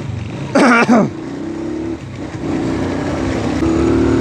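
Motorcycle engine running steadily while riding, its pitch creeping slightly upward near the end. A brief loud falling-pitched sound cuts in about half a second in.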